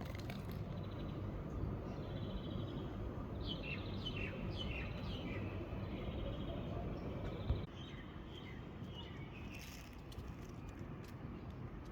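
Small songbirds chirping and singing in short repeated phrases, in two spells with a pause between, over a steady low background rumble. A single brief knock sounds about halfway through.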